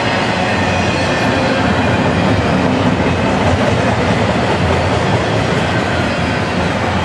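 Double-stack intermodal container cars of a freight train rolling past, steel wheels on the rails making a steady, loud running noise.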